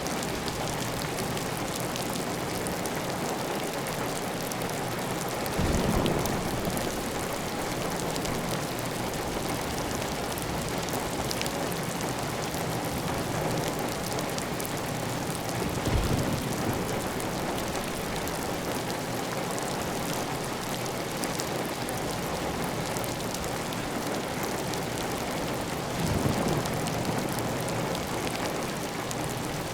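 Steady heavy rain on a clay tile roof, with water running off the roof edge. Three brief louder low thumps come about ten seconds apart.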